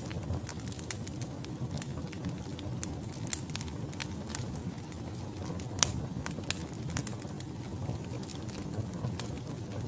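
Wood fire burning in a fireplace: a steady low roar of flames with irregular sharp crackles and pops from the burning logs, the loudest pops a little under six seconds in and again about half a second later.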